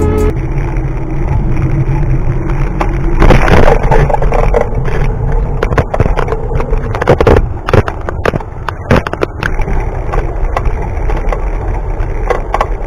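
Riding sounds of a bike on the road: a rumbling rush with rattles and knocks scattered through it, loudest about three seconds in and again around seven to nine seconds.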